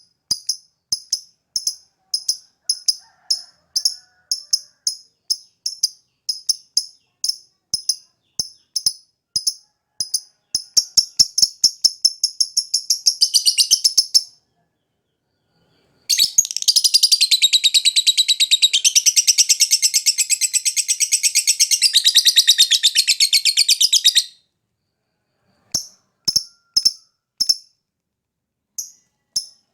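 Lovebird singing: sharp high chirps about twice a second that quicken into a rapid trill, then after a short pause a long unbroken 'ngekek' trill of about eight seconds, then chirps again. A lure recording ('pancingan') of the kind played to get lovebirds that are lazy to sing going.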